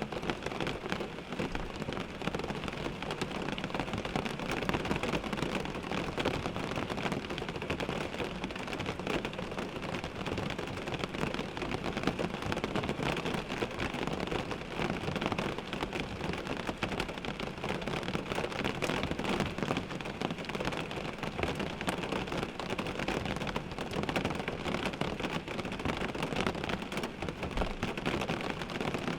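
Rain falling steadily on a car windshield, a dense patter of small drop impacts on the glass.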